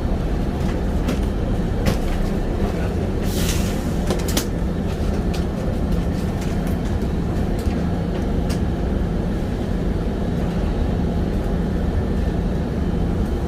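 Steady low rumble of a vehicle in motion, heard from inside, with scattered clicks and rattles and a short hiss about three seconds in.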